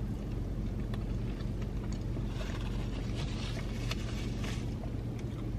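Chewing and mouth sounds of someone eating a crispy chicken wrap, with soft crunchy clicks from about two seconds in, over a steady low hum inside a car cabin.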